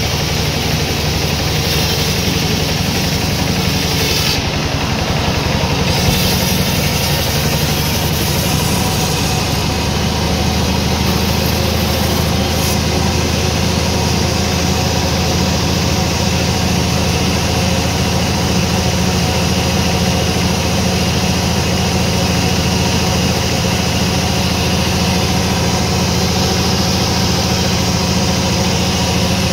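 Sawmill machinery running steadily, a constant engine-like hum that holds even throughout.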